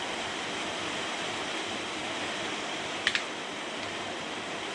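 Steady hiss of rain, sleet and hail falling on the workshop roof, with one short clink about three seconds in.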